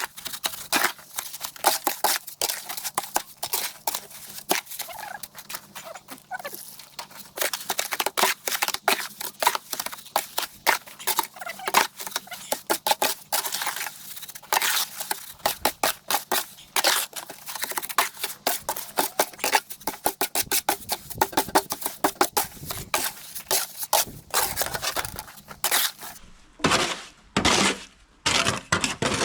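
Gritty crunching and scraping of a hand tool working soil and concrete mix: dense, rapid clicking that thins out near the end into a few separate scrapes.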